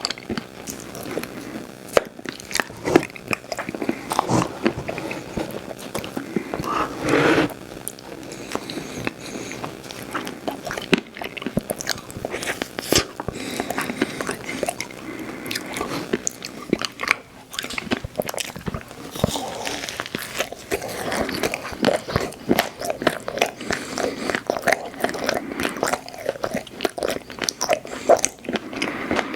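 Close-miked mouth sounds of biting and chewing ice cream treats: a dense, irregular stream of wet clicks, smacks and crunches.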